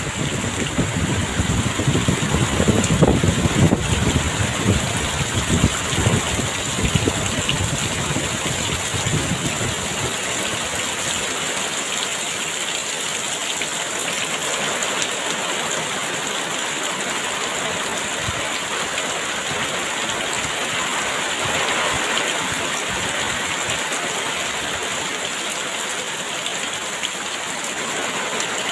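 Heavy rain pouring steadily, with a low rumble that swells and fades over the first ten seconds.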